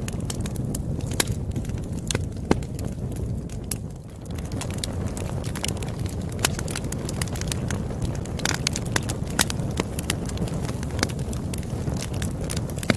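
Campfire crackling: a steady low rumble with frequent sharp, irregular pops and snaps.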